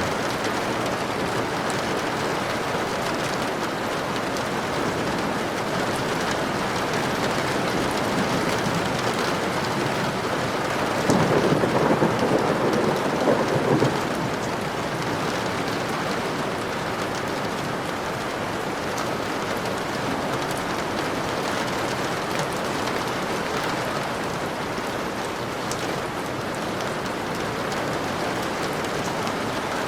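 Steady, dense rainfall, with a louder low rumble of thunder swelling for about three seconds near the middle.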